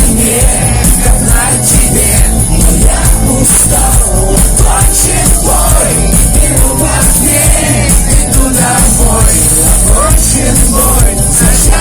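Live amplified rock music from a band on stage, loud and continuous, as heard from the audience.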